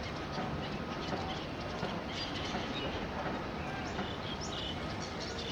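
Many birds giving short, scattered chirping calls over a steady low rumbling background.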